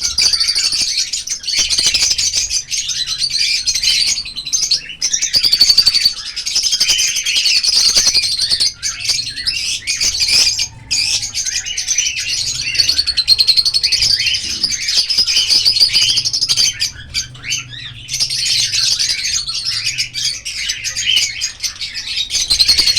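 A colony of lovebirds chirping all at once, a dense, loud, high-pitched chatter that eases briefly twice before filling in again.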